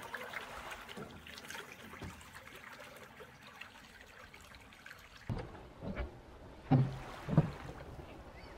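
Water trickling and lapping around a small inflatable boat under way, with a few low thumps in the second half.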